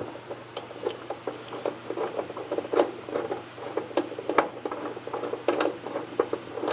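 A wrench working a subframe-connector bolt loose under the car: irregular light metallic clicks and rattling, several a second.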